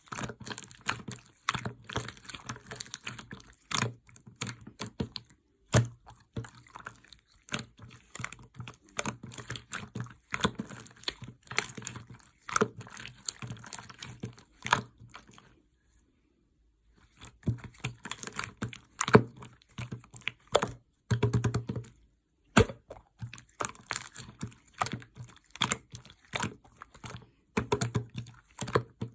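Clear slime being pressed and squished by hand, with rapid clicking and crackling as the air pockets pop. The sound stops for about a second and a half roughly halfway through, then resumes.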